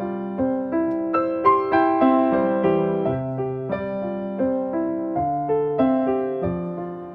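Background music: piano playing a gentle melody, a struck note about every half second, each fading out.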